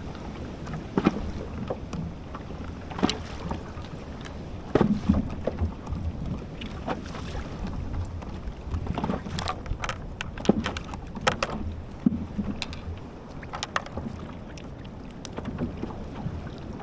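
Irregular knocks and water slaps around a kayak while a hooked kingfish is fought, with a steady low wind rumble on the microphone.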